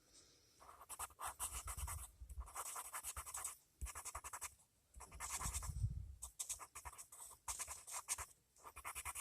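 Colored pencil scratching rapidly back and forth on paper in quick short strokes, in several runs separated by brief pauses.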